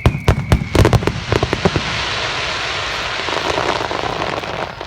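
Star mine fireworks display: a rapid volley of loud bursts in the first couple of seconds, then dense continuous crackling that cuts off sharply near the end.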